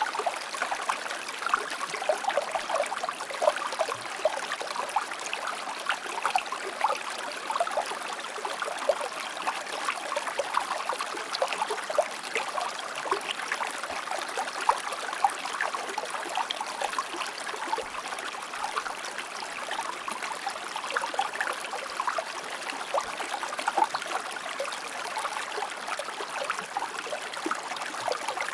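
Shallow stream or river flowing steadily over rocks, a continuous babble with many small splashes and trickles.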